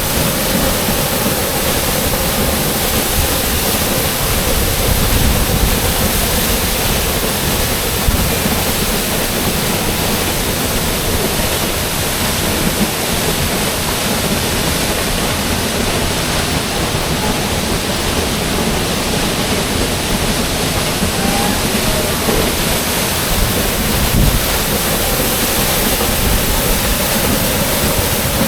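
Waterfall pouring down, heard from close underneath: a loud, steady rush of falling water with no let-up.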